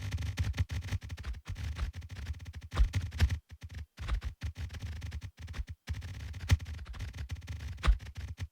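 An irregular, crackling run of sharp clicks and low knocks that vary in loudness, with a few brief drops to silence.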